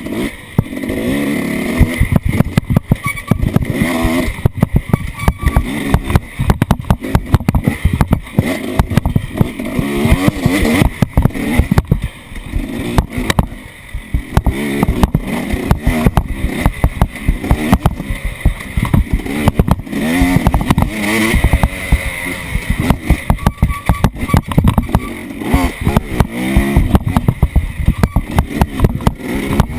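Off-road vehicle engine running and revving up and down, under a dense clatter of knocks and rattles.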